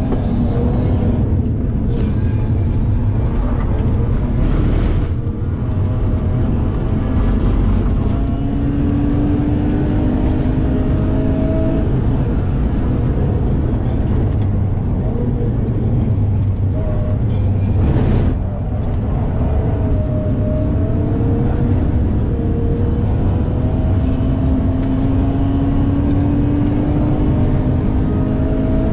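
BMW E36's 3.0-litre stroker inline-six (S50B30 US crank and pistons in an iron M50B25 block, X-pipe exhaust) heard from inside the cabin under hard driving on track. The engine's pitch climbs steadily over several seconds in each gear, with brief breaks for gear changes about 5 and 18 seconds in. The engine sounds healthy, though the car pulls sluggishly.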